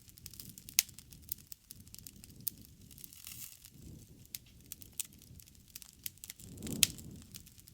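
Wood fire burning, with scattered sharp crackles and pops over a low rushing of flame; a louder snap comes about a second in, and the flames swell with a loud pop near the end.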